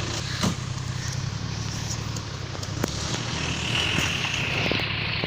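Vehicle engine running steadily at low revs, with a few knocks and a hiss that builds about three and a half seconds in.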